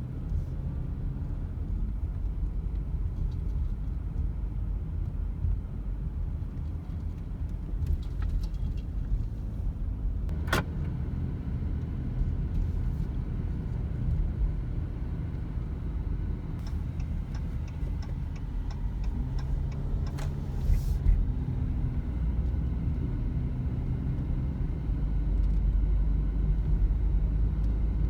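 Steady low rumble of a car on the road, heard from inside the moving car, with a few clicks and a short run of light ticks partway through.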